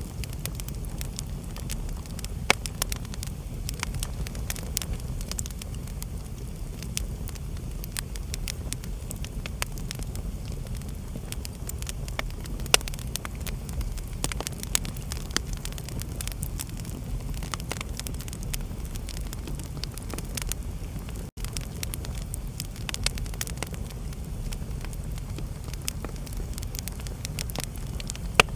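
Wood fire in a fireplace crackling, with frequent sharp pops over a steady low rumble. The sound cuts out for a split second about two-thirds of the way through.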